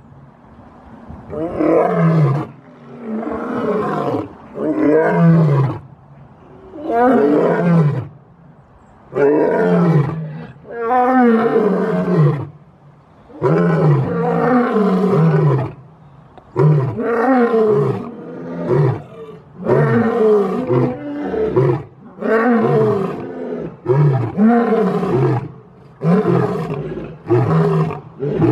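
Lion roaring: a long series of deep calls, each about a second long and falling in pitch, repeated every second or two.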